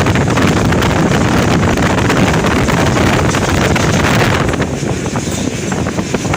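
Passenger train running at speed, a steady, loud rumble and rush of the moving train with wind buffeting the microphone.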